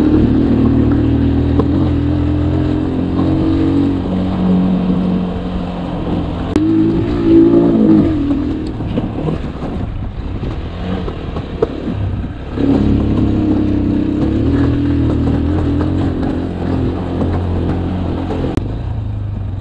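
Motorcycle engine pulling under throttle while climbing a dirt track, over a steady rush of riding noise. The revs rise about seven seconds in, dip briefly about twelve seconds in, then pick up and hold steady again.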